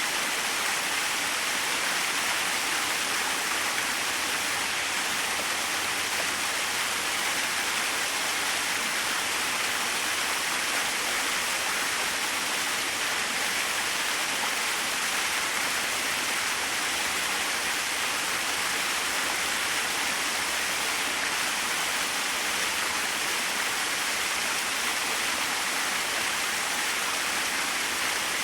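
Small waterfall splashing steadily, an even hiss of falling water.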